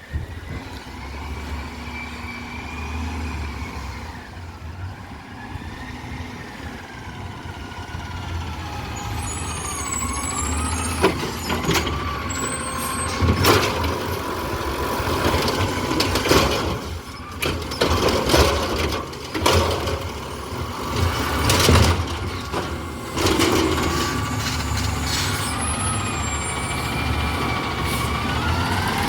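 Garbage truck engine running and revving, with a wavering whine rising and falling over it. A series of loud clanks and bangs comes about midway, typical of the truck's hydraulic lift and packer working.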